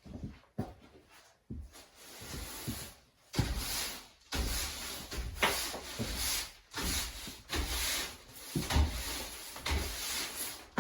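Broom sweeping over rough wooden boards, a few light knocks at first, then a run of rasping strokes about one a second.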